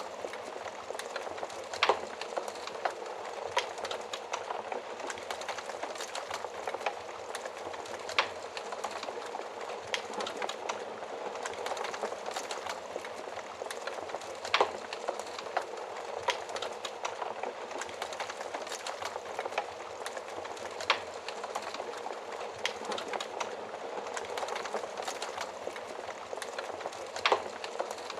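Wood fire crackling in an oven: a steady hiss of burning with frequent small crackles and a louder pop about every six seconds.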